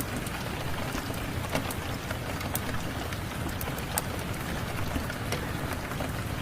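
Steady rain, with the sharp, irregular pops and crackles of a wood fire burning in a fireplace scattered over it.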